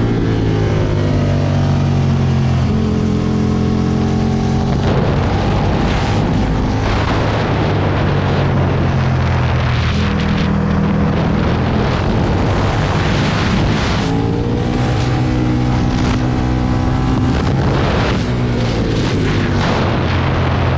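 Aprilia Tuono V2 1000's V-twin engine accelerating hard, rising in pitch, holding and then dropping off, twice, under constant wind rush.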